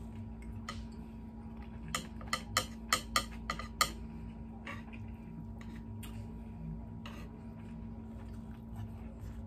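Chopsticks clicking and tapping while picking up sushi: a quick run of about seven sharp clicks between two and four seconds in, then a few softer taps, over a faint steady hum.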